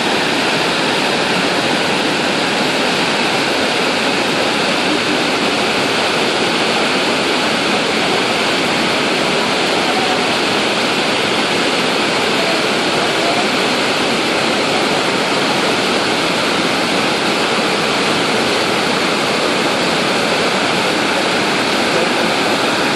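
Steady rushing of a large waterfall, the Iguazu Falls, as a loud, unchanging wall of falling water.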